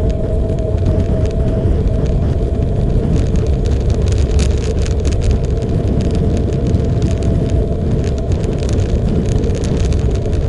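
Motorcycle running at a steady pace on the road, its engine rumble mixed with wind rush, loud and even with no change in speed.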